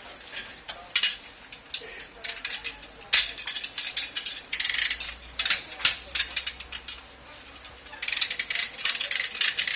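Irregular light metal clinks and taps from hand tools working sheet metal, with a denser run of rapid taps from about eight seconds in.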